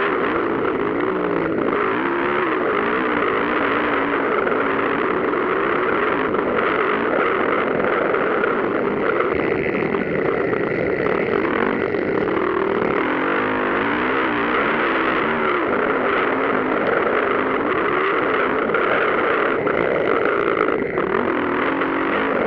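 Motocross motorcycle engines revving as the bikes race, several pitches rising and falling over one another with each throttle change.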